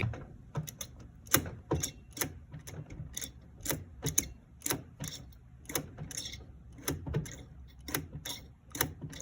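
Cheap bicycle brake lever rigged as a hand throttle being worked over and over, clicking about two to three times a second over a low steady hum.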